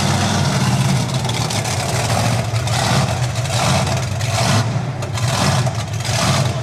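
A heavy vehicle's engine running, with a steady low hum and a few brief swells in the middle.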